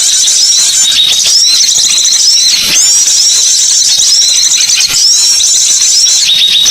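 Dense, continuous high-pitched bird chattering: many overlapping short chirps repeated without pause, from a recording of calls used to lure wild birds.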